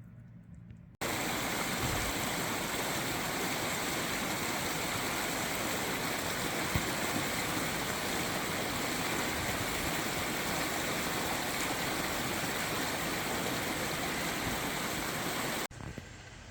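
Steady rush of fast-flowing water, as from a creek or waterfall. It starts abruptly about a second in and cuts off suddenly near the end.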